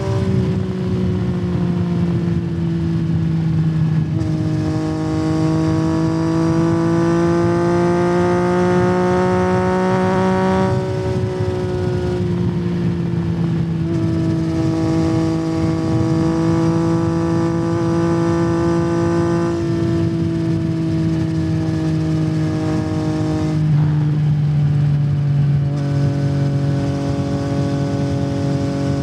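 Yamaha MT-09's inline-three engine through a Yoshimura R77 aftermarket exhaust, riding under way. The revs climb slowly, hold steady for long stretches, and step down a few times at gear changes.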